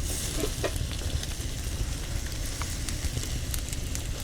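Food sizzling as it cooks over a wood campfire, nearly done, with scattered sharp crackles from the burning wood.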